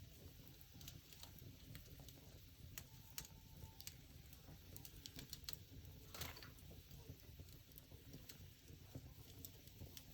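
Wood fire crackling faintly: scattered sharp ticks and pops, with one louder, longer crackle about six seconds in.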